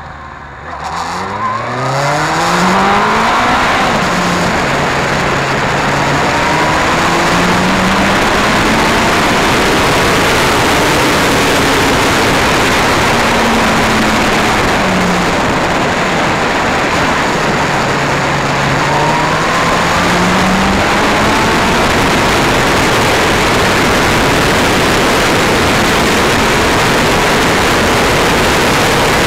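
Yamaha YZF-R1 inline-four engine pulling away, its pitch climbing steeply in the first two seconds and then rising and falling with the throttle. Heavy wind rush on the bike-mounted microphone covers much of it once the bike is up to speed.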